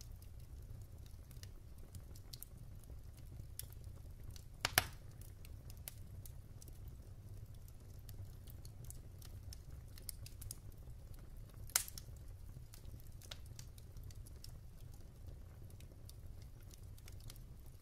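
Wood fire burning in a fireplace: soft, steady crackling of the logs over a low, steady rumble, with two louder pops, one about a third of the way through and one about two-thirds through.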